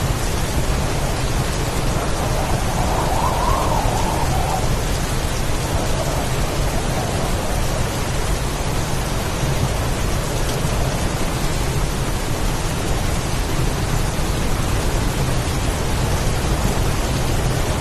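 Heavy rain and strong wind of a storm: a steady, even noise with a constant deep rumble underneath. A brief swell rises and fades about two to four seconds in.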